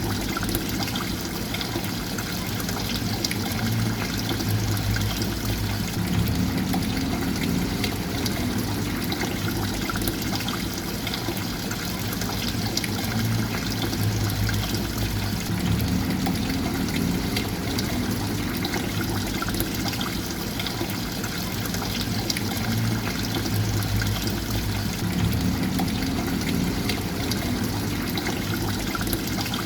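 Running water trickling and pouring steadily, with a low rumble beneath it that shifts in a pattern repeating about every nine to ten seconds.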